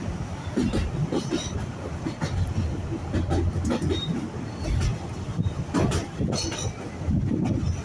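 Narrow-gauge railway carriage running along the track: a steady low rumble with frequent irregular clicks and knocks from the wheels on the rails.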